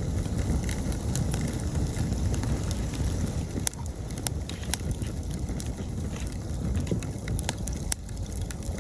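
Wood campfire burning, with a steady low rush under sharp crackles and pops that come irregularly, several close together in the middle and near the end.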